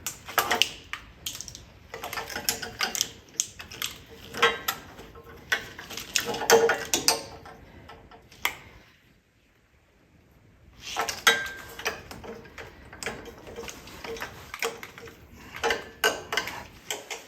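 Hand-tool and parts work on an ATV: irregular runs of mechanical clicks, ratcheting and knocks of metal parts, stopping for about two seconds near the middle.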